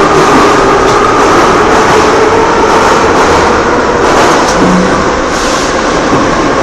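Metro train running: a loud, steady rumble with a held whine over it, as heard inside the carriage.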